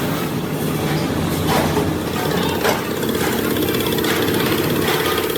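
A machine running steadily, with a couple of brief knocks.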